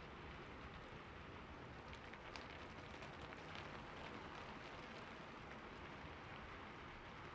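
Rain falling steadily on a roof: an even, soft hiss with scattered drop ticks.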